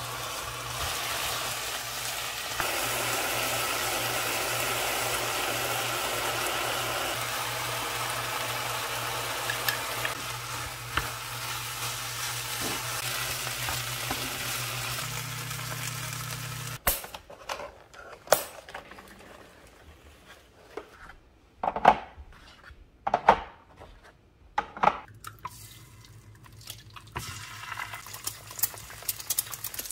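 Ground beef, diced vegetables and rice sizzling in a frying pan as they are stirred with a wooden spoon, over a steady low hum. Partway through the sizzling cuts off abruptly, and a few separate sharp knocks and taps of cookware follow.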